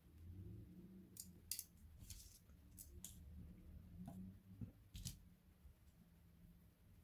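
Faint, scattered light clicks and taps of small plastic and metal laptop parts being handled during disassembly, about seven in the first five seconds, over a low room hum.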